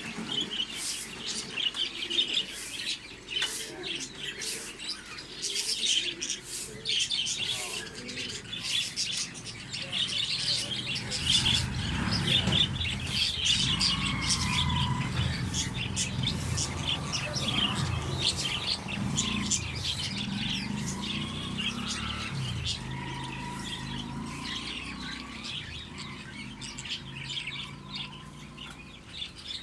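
A flock of small caged birds chirping and twittering rapidly and continuously. A low rumble joins underneath from about ten seconds in.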